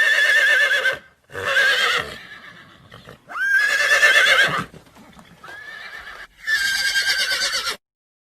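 Horse neighing: five whinnies in a row, each with a wavering, trembling pitch, the fourth one fainter than the rest.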